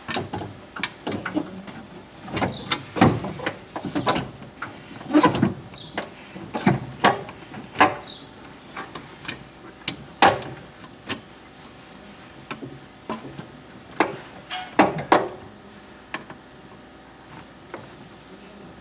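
Irregular clanks and knocks of hand tools and metal parts being handled, some ringing briefly, dying away after about sixteen seconds.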